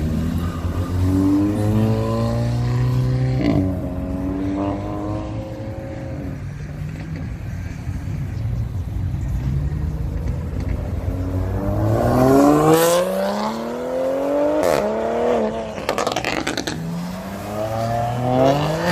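Car engines accelerating hard away, the revs climbing and dropping back at each gear shift, several pulls in a row. The loudest pull comes about twelve seconds in, with a few sharp cracks from the exhaust.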